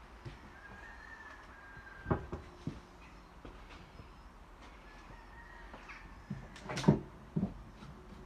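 Scattered knocks and clunks, the loudest about seven seconds in, with a faint thin squeak or whistle heard twice.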